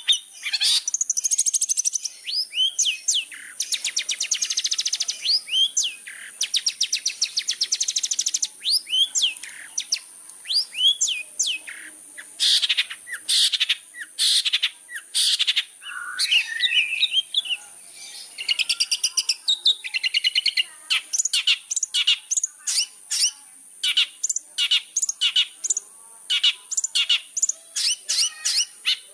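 Long-tailed shrike (cendet) singing a long, varied song: rapid buzzy trills, whistled up-and-down glides and strings of short sharp notes, one phrase after another with brief gaps.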